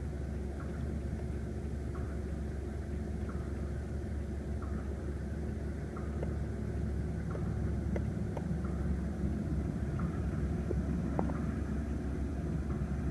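Steady low hum of the BMW 328i's 2.0-litre twin-turbo inline four-cylinder idling, with faint regular ticks about every second and a half.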